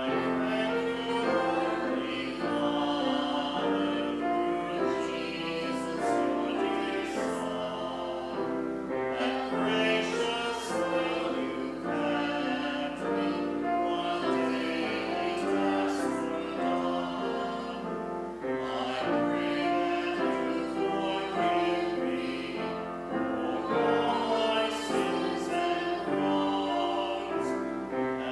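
Congregation singing a hymn with instrumental accompaniment, in phrases with short breathing pauses between them.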